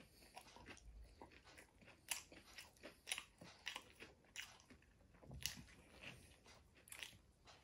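Faint close-up chewing and biting of a burger with a crisp aloo tikki patty, an irregular run of short crunches about twice a second.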